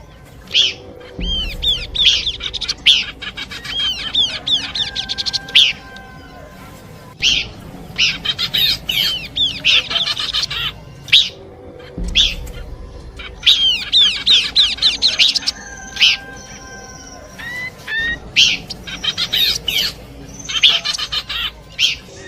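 Horsfield's babbler (pelanduk semak) song, played as a bird-lure recording. Repeated bursts of rapid, high chattering notes are broken by short pauses, with a few longer whistled notes mixed in.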